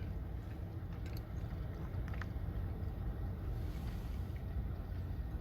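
Steady low rumble of a Toyota Tacoma pickup heard from inside the cab, the engine and road noise of the truck running, with a faint tick about two seconds in.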